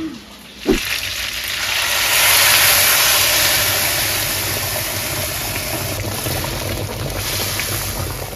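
Blended guajillo chile sauce poured into a hot pan of fried pork ribs, sizzling loudly as it hits the hot fat. A knock comes first, then the sizzle swells over the first couple of seconds and slowly eases as the sauce is stirred in.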